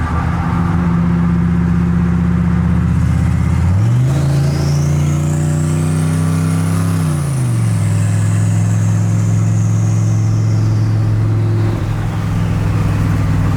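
Turbocharged 6.0 V8 of a Chevrolet Silverado heard from inside the cab while driving, with the exhaust running right under the cab. The engine note steps up about four seconds in, holds for a few seconds, then drops back to a steady cruise, while a faint high whistle rises and slowly falls.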